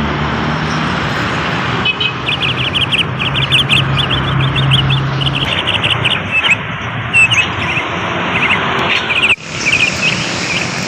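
Bali myna calling: a fast run of short, sharp repeated notes that starts about two seconds in and goes on in bursts, over a steady background noise and a low hum that stops about halfway. The calls break off briefly near the end.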